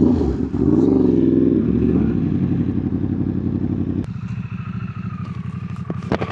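Yamaha R1 crossplane inline-four running at low revs through an SC Project titanium exhaust, its pitch wavering as the bike rolls along. About four seconds in it drops to a lower, steady idle.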